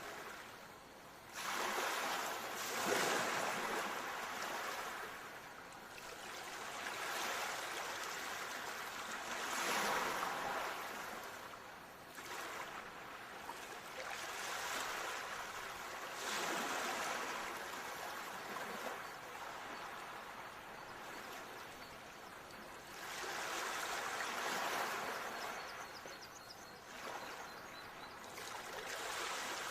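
Ocean waves washing in and drawing back, a rushing surge that swells and fades about every six to seven seconds.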